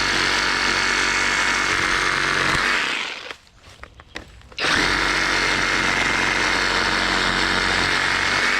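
Skil cordless reciprocating saw cutting tree branches, running steadily for about two and a half seconds, stopping, then starting again about a second and a half later and running on.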